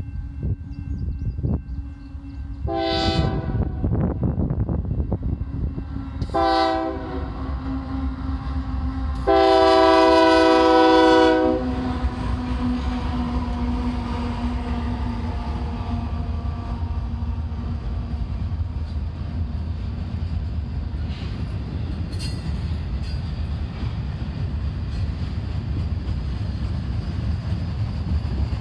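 Union Pacific diesel locomotive's air horn sounding two short blasts and then a longer one, followed by the intermodal train rolling past with steady rumble and wheel noise on the rails.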